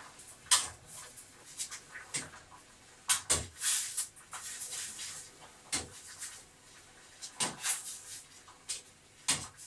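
Scattered clicks and knocks from kitchen items being handled, with a short hiss about halfway through.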